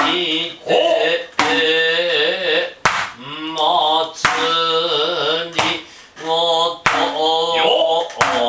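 Noh chant (utai) sung in long, wavering, drawn-out syllables, with six sharp kotsuzumi shoulder-drum strokes, roughly one every second and a half.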